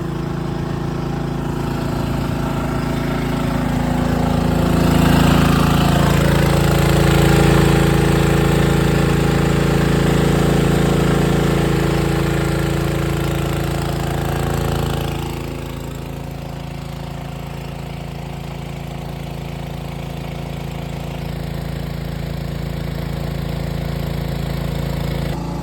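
Small engine-driven water pump running steadily, pumping water out of a sunken sailboat's hull. It is louder for the first half and drops in level about fifteen seconds in.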